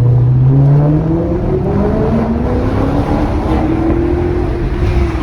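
Maserati GranTurismo MC Stradale's 4.7-litre naturally aspirated V8 accelerating, its pitch climbing steadily for about four and a half seconds, then falling back near the end.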